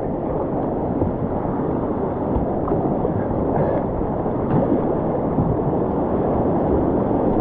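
Rushing whitewater of a river rapid, a steady wash of water noise that grows slightly louder as the kayak moves into it.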